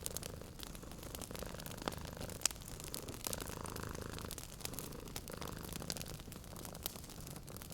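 Wood fire crackling in a fireplace, with frequent small pops and one sharper pop about two and a half seconds in, over a cat's steady low purring.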